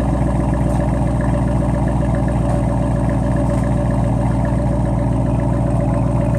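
2015 Dodge Challenger's exhaust, through Flowmaster Outlaw mufflers with the mid muffler deleted, idling at a steady, even pulse with no revs.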